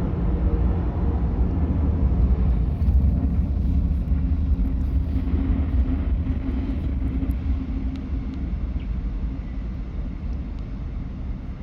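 Steady low rumble of a jet airliner's engines, easing off gradually near the end.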